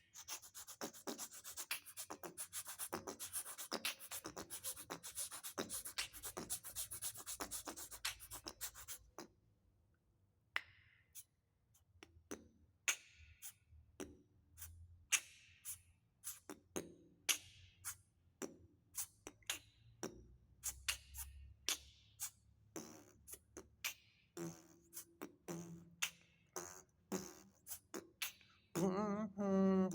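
Vocal beatboxing. For about the first nine seconds there is a fast, dense run of hissing and clicking mouth percussion. After that come sparser single clicks and pops, spaced out, and a sung note comes in near the end.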